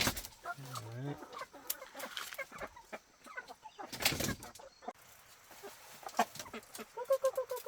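Chickens clucking, with a wavering call near the start and a rapid run of clucks near the end, among scattered clicks and scratches. A short noisy burst comes about four seconds in.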